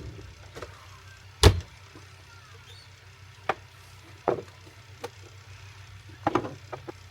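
A series of sharp knocks and clunks, about seven in all, the loudest about a second and a half in and a quick cluster near the end, over a faint steady hum.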